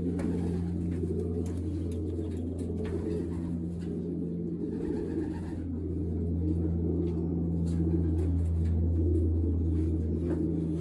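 Many racing pigeons cooing at once, a continuous overlapping low cooing, over a steady low hum.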